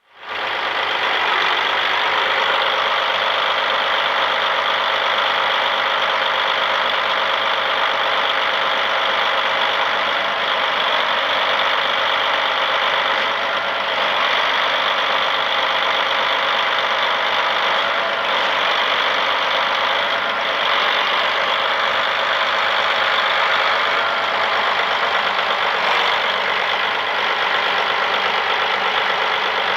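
Diesel engine of a 2009 Challenger MT955B four-wheel-drive tractor idling steadily.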